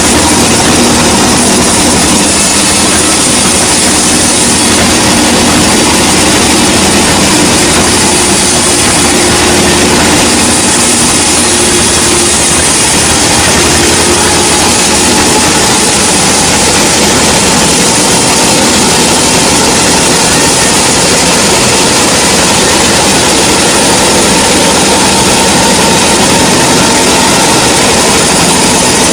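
Sawmill machinery running: a steady, loud mechanical din of motor hum and saw noise with no pauses.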